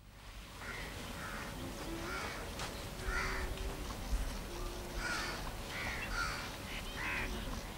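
Birds calling outdoors, a short arching call repeated irregularly every half second to a second, fading in at the start.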